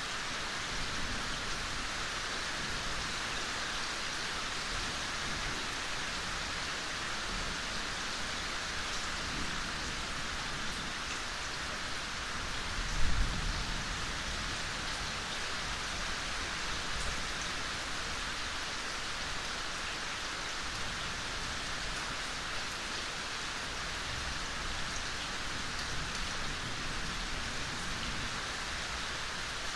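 Steady gentle rain falling, an even hiss of many drops. About halfway through, a brief low thump stands out above it.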